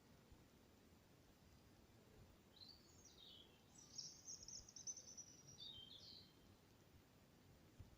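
A songbird singing faintly: one phrase of high, varied, gliding notes lasting about three and a half seconds, starting a couple of seconds in.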